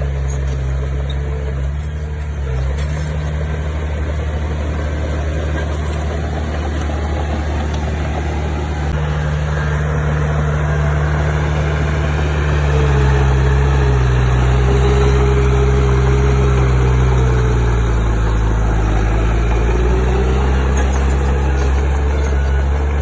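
Diesel engine of a piece of heavy earthmoving machinery running steadily, its note rising about halfway through and dipping briefly near the end as the load or throttle changes.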